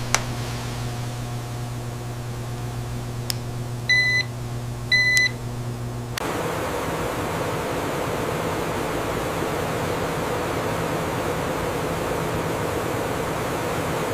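Steady hum of factory machinery, with two short electronic beeps about a second apart. About six seconds in the sound cuts abruptly to a different, hissier machine whir that carries a steady tone.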